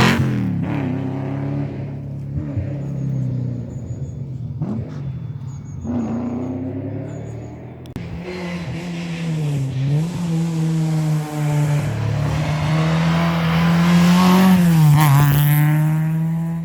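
Historic rally car engines on a special stage: the first car's engine note falls and rises as the driver lifts off and gets back on the throttle, then, after an abrupt change about 8 seconds in, another car runs at steady high revs with brief dips and a rise near the end as it changes gear.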